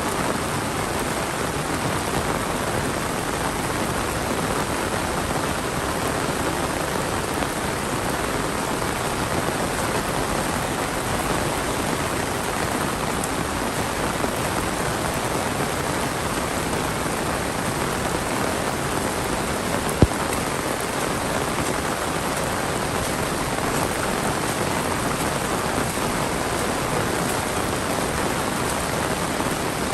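Heavy monsoon rain falling steadily, an even hiss of rain on surfaces. A single sharp click stands out about twenty seconds in.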